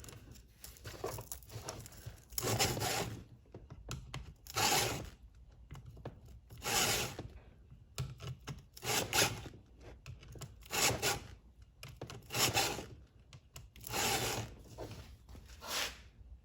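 Hand file strokes on a chainsaw chain: a file guide pushed one way across a tooth, sharpening the cutter and filing down its depth-gauge raker in the same pass. Each push is a short rasping scrape, repeated about every two seconds, some eight strokes in all.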